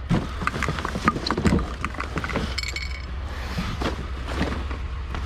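Knocks and clatter of junk being handled and shifted through in a curbside pile, over a steady low rumble, with one brief high ring about halfway through.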